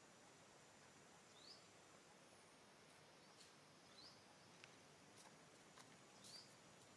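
Near silence with a faint outdoor hiss, broken three times by a bird's short, high, rising chirp, about two and a half seconds apart, with a few faint ticks between.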